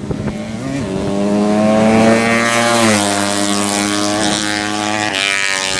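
200 cc drag-race motorcycle engine running flat out at high revs, a loud steady note whose pitch steps down slightly about three seconds in.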